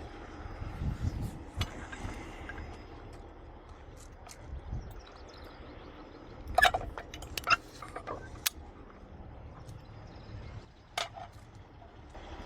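Metal clinks and clanks of chain and hooks being handled while rigging a load, several sharp strikes in a cluster past the middle and one more near the end. A low engine rumble runs underneath.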